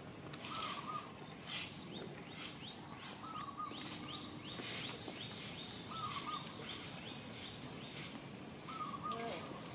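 Birds calling outdoors: a short warbling call comes every two to three seconds over a steady run of quick high chirps, with a burst of rapid falling chirps in the middle.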